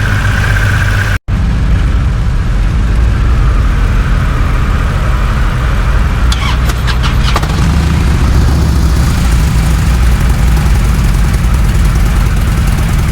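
Motorcycle engine running steadily as the bike rides off, broken by a brief dropout about a second in.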